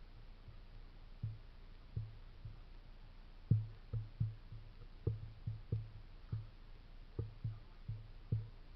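Soft, low thuds at uneven intervals, often two or three close together, over a quiet background.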